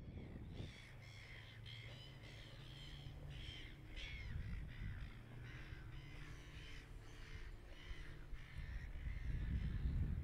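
Birds calling over and over, many short calls overlapping throughout, over a low steady hum.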